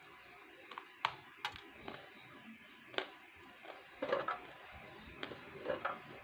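A few sharp clicks, then two short crunches about four and five and a half seconds in: bites into and chewing of chunks of Multani mitti (fuller's earth clay), close to the microphone.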